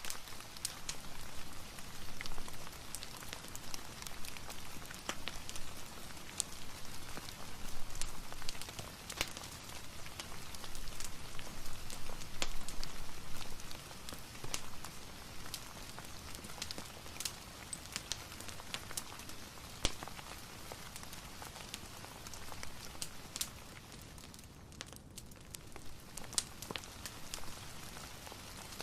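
Steady rain hiss mixed with a wood fire crackling, with frequent sharp pops and ticks scattered throughout.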